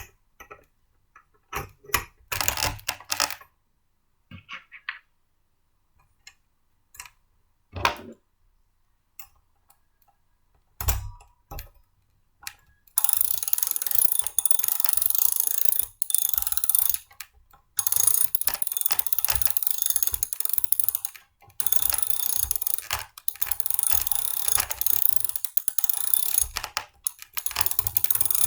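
Blender parts being handled during hand assembly: scattered clicks and knocks, then from about halfway a loud, fast, continuous ratcheting rattle, broken twice by short pauses.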